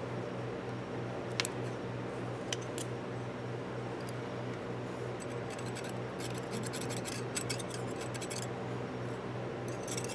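Bench polisher motor running with a steady hum while small metal ratchet parts are held against the wheel, giving a few sharp clicks early on and a stretch of scratchy rasping a little past the middle.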